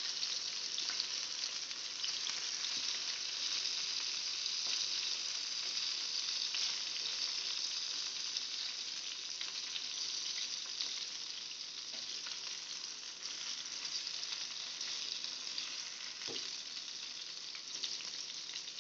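Stuffed eggplant slices shallow-frying in sunflower oil in a frying pan, sizzling steadily, with a few faint clicks of a spoon and spatula against the pan as the slices are turned over.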